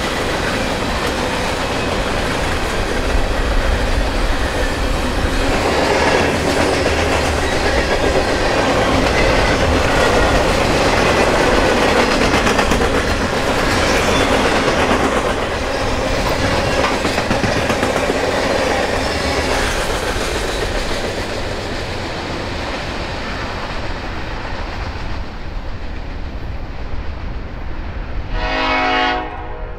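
Freight train passing close by: steady rumble and clatter of wheels on the rails, easing off over the last third. Near the end a diesel locomotive horn sounds once for about a second.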